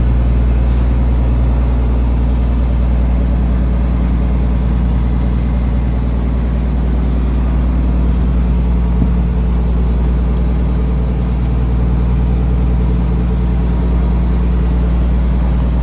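Fishing trawler's diesel engine running steadily: a loud low drone with an even noise above it and a thin, steady high whine.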